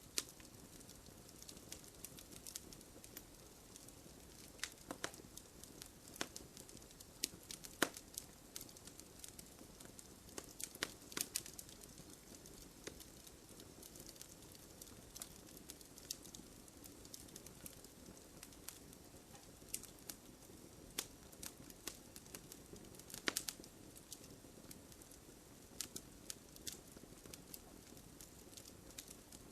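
Wood campfire burning, a steady soft hiss with irregular sharp crackles and pops, a few louder snaps scattered through.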